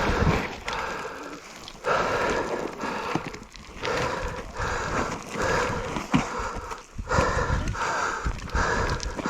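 A person breathing hard in rhythmic, heavy breaths, about one every half second to second, close to the microphone.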